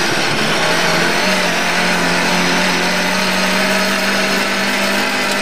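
Lada 1200 rally car's 1.2-litre four-cylinder engine pulling hard at high revs, heard from inside the cabin. Its pitch steps up a little about a second in and then holds steady.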